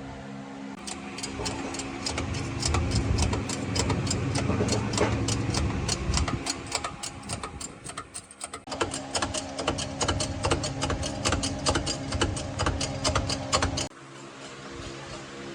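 Rhythmic mechanical clicking, several clicks a second, over a low steady hum, broken off briefly in the middle and stopping suddenly near the end.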